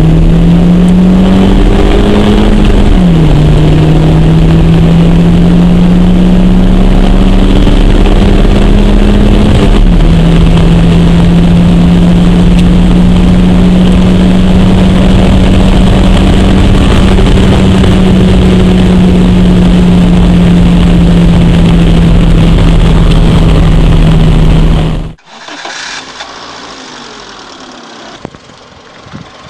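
Honda Civic's 1.6-litre 16-valve VTEC four-cylinder engine at full throttle, heard from inside the cabin. Its pitch climbs and drops sharply at two upshifts, about 3 and 10 seconds in, then climbs slowly in the higher gear. Near the end the loud engine sound cuts off abruptly to a much quieter engine hum.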